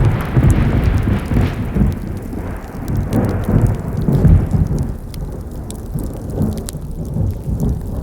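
Wood campfire crackling with sharp pops, under a loud low rumble that starts suddenly and swells and eases for several seconds.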